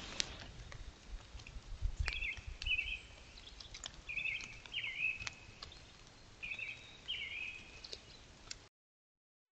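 Outdoor morning ambience with a songbird calling in three short bursts of chirps, scattered clicks and low thumps, and a faint steady hiss; the sound cuts off abruptly near the end.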